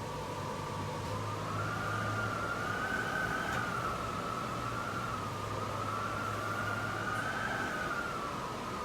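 A distant siren wailing, its pitch slowly rising and falling twice, over the steady hiss of heavy rain.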